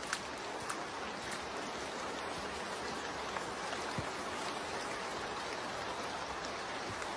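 Steady rain falling through rainforest, a continuous even hiss, with a few individual drops ticking close by in the first second or so and a soft low thump about four seconds in.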